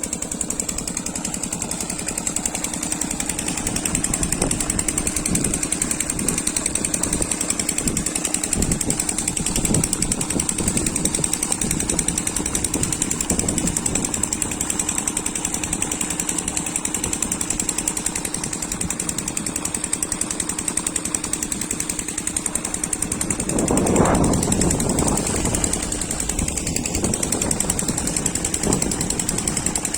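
Oil (diesel) engine driving a borewell air compressor, running steadily with a rapid, even knocking beat and a steady hum. About 24 s in a louder, rougher surge comes through, and after it the hum drops away.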